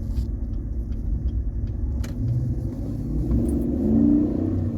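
Stock exhaust of a 2021 Chevrolet Silverado 1500's 6.2-litre V8, heard from inside the cabin while driving: a muted low rumble, with the engine note rising and growing louder as it accelerates about three seconds in.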